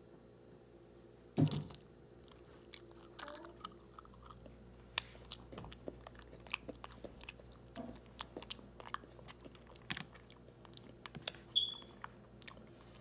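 Close-up chewing of a strawberry mochi ice cream: many small wet mouth clicks and smacks as the chewy rice dough is worked, with a louder mouth sound about a second and a half in and a brief high squeak near the end.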